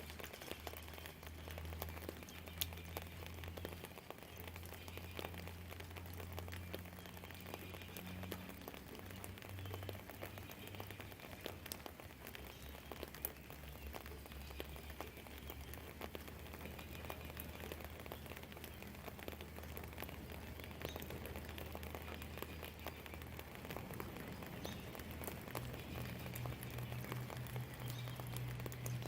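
Light rain falling, with many separate drops ticking on nearby surfaces, over a steady low rumble that grows a little louder near the end.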